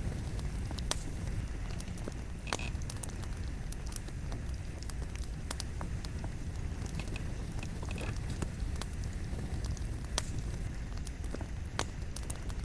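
Wood fire burning with a steady low rumble and frequent irregular crackles and pops from the burning logs. A few brief high squeals come from the wood, around two and a half seconds in and again near the eighth second.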